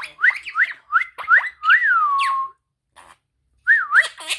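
Quaker parrot (monk parakeet) whistling: a run of about five quick rising notes, then a longer note that rises and slides back down. After a pause, two more notes come near the end.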